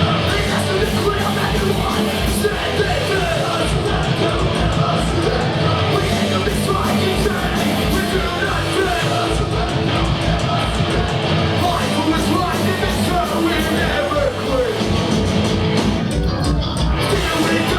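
Punk band playing live: loud distorted guitars, bass and drums driving a fast, even beat, with shouted vocals.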